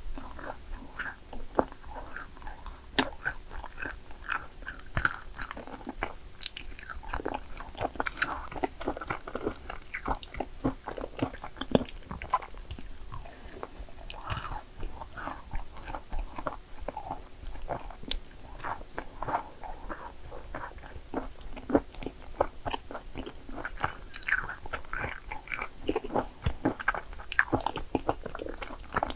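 A person biting and chewing yakgwa cookies, with a dense run of irregular crunchy clicks and crackles.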